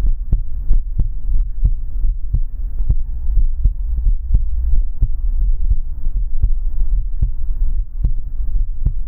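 Amplified heartbeat recording: a regular pulse of soft thuds and clicks, about three a second, over a deep, constant rumble and a faint steady hum.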